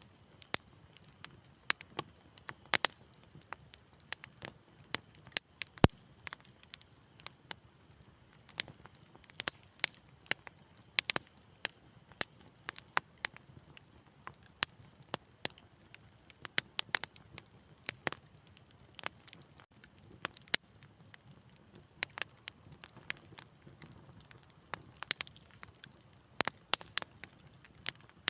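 Fire in a fireplace crackling: irregular sharp pops and snaps over a faint low hiss, with one louder pop about six seconds in.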